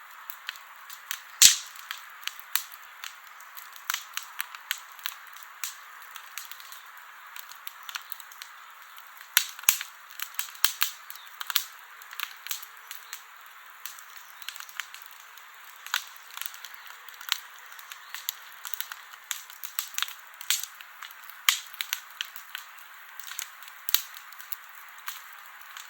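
Wood campfire crackling: irregular sharp pops and snaps over a steady hiss of the burning fire, with one loud pop about a second and a half in.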